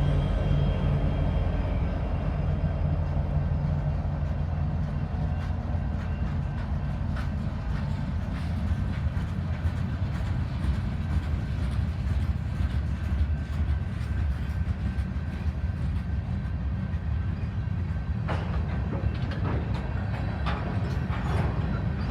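Freight train rolling past: a steady rumble of the cars, with scattered sharp wheel clicks that come more often near the end. A diesel locomotive's low drone fades out over the first few seconds.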